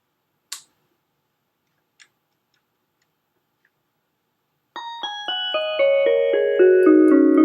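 Two short clicks, then about two-thirds of the way in a Yamaha PSS-470 portable keyboard starts a melody in F#: quick notes about four a second, stepping downward and held on with sustain so that they overlap and ring.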